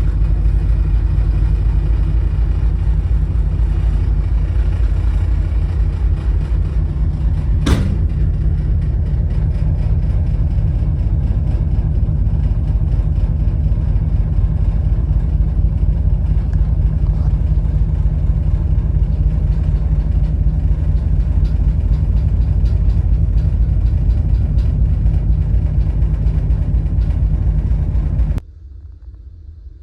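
Loud, steady low rumble aboard a ferry, with a single sharp click about eight seconds in; it cuts off suddenly near the end.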